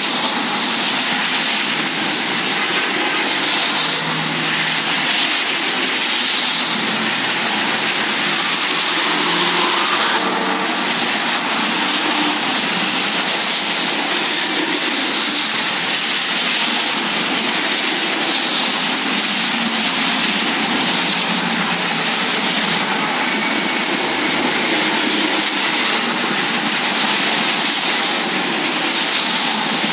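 Thunderstorm rain and wind, a loud, steady, even hiss with no thunderclap.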